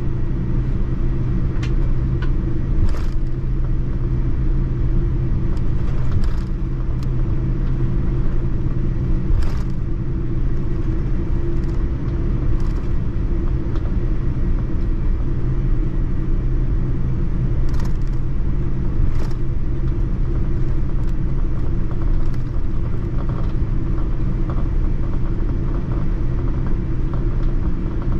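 Steady low rumble of a Boeing 787-9's cabin noise, with a few light clicks scattered through it.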